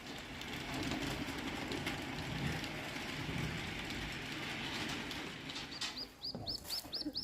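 A steady background rush, then about six seconds in a bird starts a fast run of short, high chirps, about five a second.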